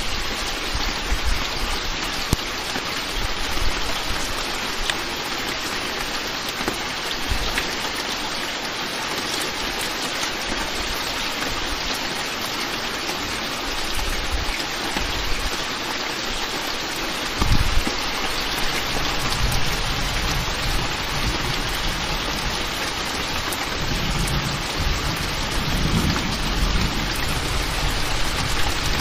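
Heavy rain pouring steadily in a thunderstorm, with a single low thump about halfway through and low thunder rumbling through the second half.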